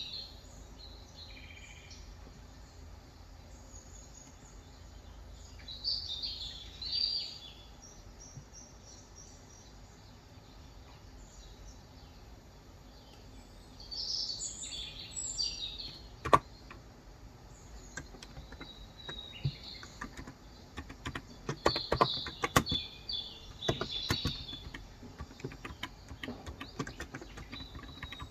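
Small birds chirping in short bursts. From about halfway in, keystrokes on a Cox Endeavor 35 g electro-capacitive tenkeyless keyboard come in irregular runs of clicks.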